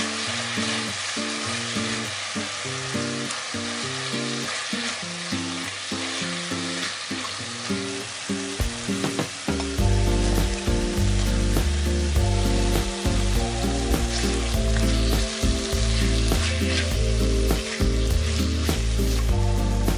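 Chicken and onion in a sticky chili sauce sizzling in a stainless steel frying pan as a spatula stirs them. The sizzle continues through background music, whose bass comes in about ten seconds in.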